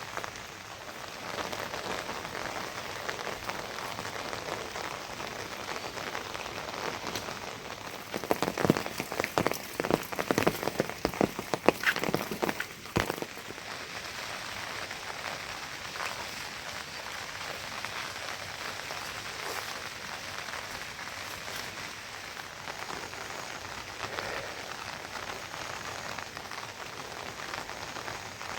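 Steady rain falling, a continuous even patter. About eight seconds in, a few seconds of louder, irregular knocks and clatter rise over the rain, then stop.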